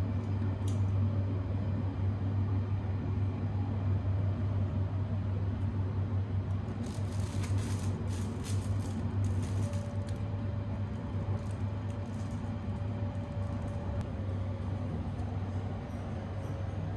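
Steady running noise of the Sunrise Izumo, a 285-series electric sleeper train, heard from inside the car, with a strong low hum throughout. About seven seconds in comes a couple of seconds of crackly crinkling from a plastic snack wrapper being handled. A faint steady whine joins about ten seconds in.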